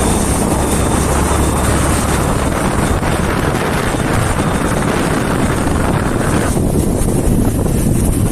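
Wind rushing over the microphone of a moving vehicle, with a low engine hum that fades after about two seconds.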